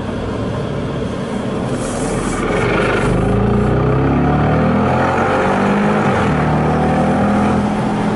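Bentley Continental GTC's 4.0-litre twin-turbo V8 accelerating hard from about three seconds in, its note climbing in pitch, dropping back once with an upshift about five seconds in, then climbing again. Heard from the open cockpit with wind and road noise.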